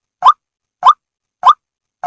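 White-breasted waterhen call, Indonesian type: three short, sharp notes, each rising quickly in pitch, repeated evenly about every 0.6 seconds.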